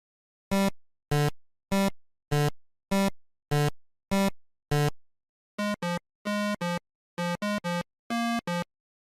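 Electronic synthesizer tones. Eight identical notes about 0.6 s apart, each fading out, then from about halfway through a run of shorter, clipped notes in quick pairs and groups.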